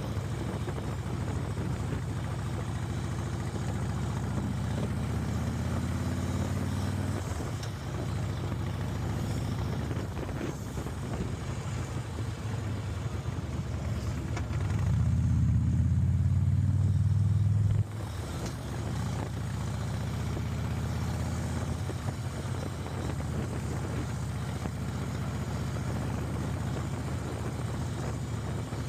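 Motorcycle engines running with a steady low rumble. It grows louder for about three seconds past the middle and then drops back suddenly.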